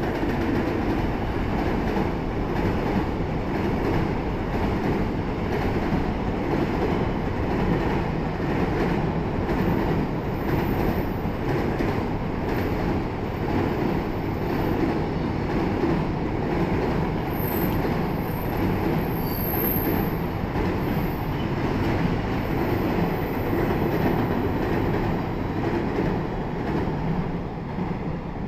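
Container freight train hauled by an EF210 electric locomotive running past, a steady rumble of wagons and wheels on the rails. Faint wheel squeal comes in partway through, and the sound eases off near the end.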